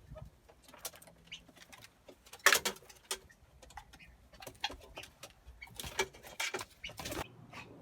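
Backyard poultry and pigeons making a scatter of short, sharp calls and rustling sounds, the loudest about two and a half seconds in.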